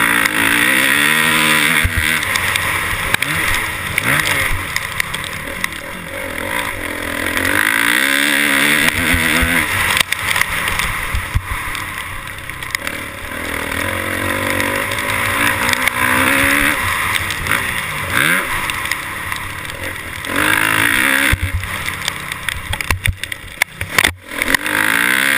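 Motorcycle engines revving, their pitch climbing and falling again and again as the bikes accelerate and shift, over a steady rushing noise.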